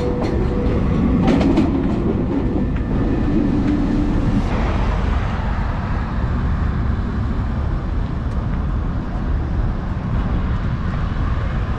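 Steady low rumble of a vehicle in motion, with a hum and a few clicks in the first seconds.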